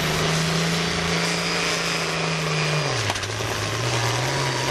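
Pulling tractor's engine running at a steady pitch that drops about three seconds in, then climbs a little.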